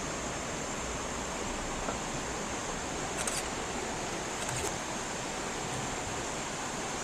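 Steady rushing outdoor ambience of the rainforest canopy, with a continuous high-pitched hum running through it and two brief high chirps, about three and four and a half seconds in.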